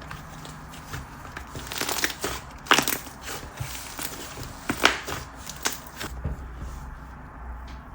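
Hands squishing and pressing a whipped slime with fine sand mixed in, making irregular crackling pops and crunches; the loudest pops come about three seconds and five seconds in.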